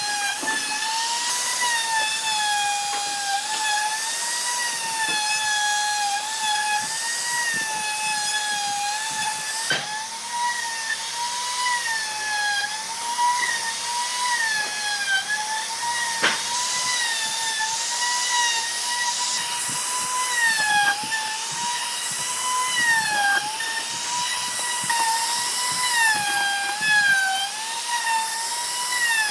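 An electric power tool's motor running at high speed, its whine wavering and dipping in pitch every few seconds as it is worked into wood, over a steady bright hiss of cutting.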